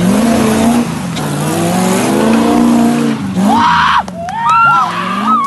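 Modified Suzuki Jimny's V8 engine revving hard, its pitch rising and falling, over a thick hiss of spinning tyres and spraying mud. For the last second and a half, high gliding tones rise and fall over the quieter engine.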